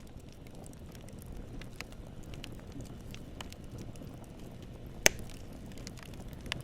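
Wood campfire burning: a steady low rumble of flame with scattered small crackles, and one sharp, loud pop of the wood about five seconds in.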